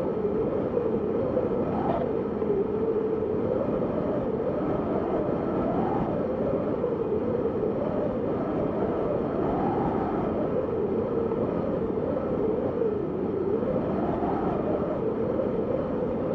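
Steady wind, with a band of pitch that rises and falls gently about every four seconds.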